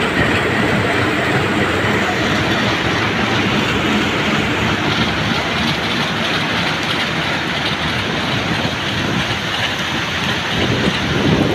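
Diesel locomotive of a passenger train pulling out and passing close by, its engine running steadily, with the coaches rolling by on the rails near the end and rain falling.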